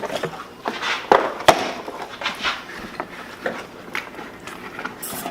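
Close-miked eating sounds: a run of sharp clicks, crackles and smacks of chewing and handling food, with the loudest snap about a second and a half in.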